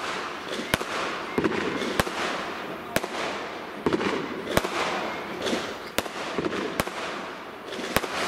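Fireworks going off: about eight sharp bangs, roughly one a second, over a continuous rushing noise.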